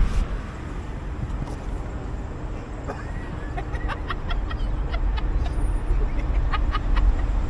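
Steady low rumble of a car, with a scatter of short high chirps over the middle and later part.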